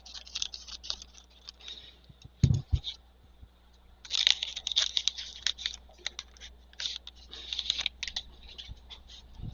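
Trading cards and their packaging handled on a table: clusters of quick, crisp rustles and clicks, with one low thump about two and a half seconds in.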